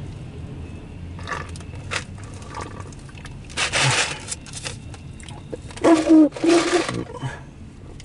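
Intermodal freight train's cars rolling past with a steady low rumble. Around the middle come three louder rushing bursts, the last two carrying a low, voice-like tone.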